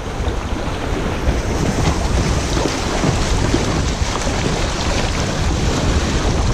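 Rushing river water around the kayak as it runs a shallow stretch, with wind rumbling on the microphone.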